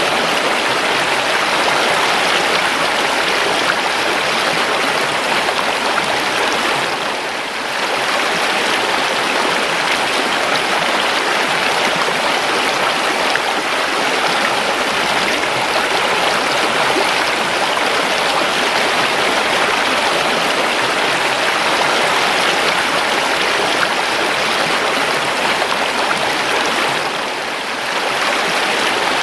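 Steady rush of a calm river's flowing water, dipping briefly in level twice, about twenty seconds apart.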